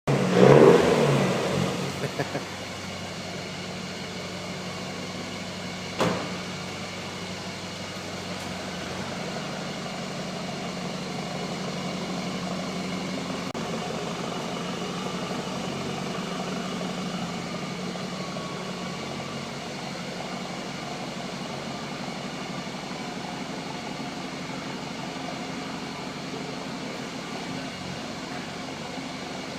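Mitsubishi L200 pickup engine heard through its new stainless steel exhaust: a loud burst over the first two seconds, then idling steadily. There is a short sharp knock about six seconds in.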